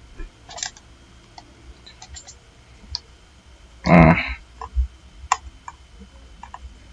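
Scattered computer mouse clicks and keyboard taps, with one short, loud throaty sound about four seconds in.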